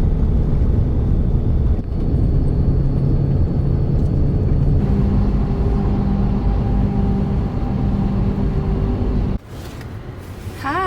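Road and engine noise inside a moving vehicle: a steady low rumble with a constant hum. It cuts off suddenly about nine seconds in, leaving a much quieter background.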